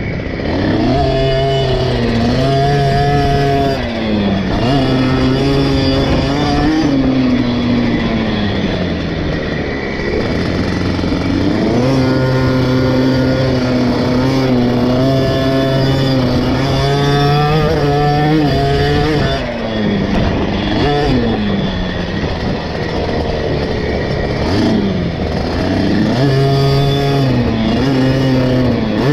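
KTM 50 SX's small two-stroke single-cylinder engine revving hard and backing off in turn around a motocross lap, with a long held high-rev run in the middle. The revs drop sharply about two-thirds of the way through, then climb again near the end.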